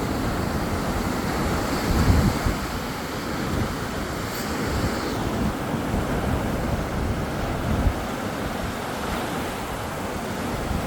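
Sea waves washing onto the shore in a steady rush, swelling briefly about two seconds in, with wind buffeting the microphone.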